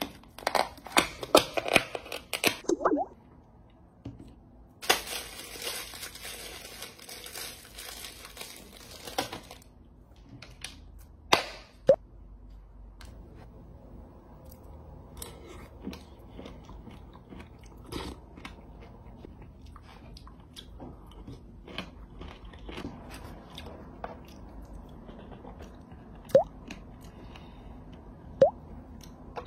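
Close-up crunching and chewing of pickled radish, with scattered sharp clicks. There is a few seconds of steady noisy rustle about five seconds in.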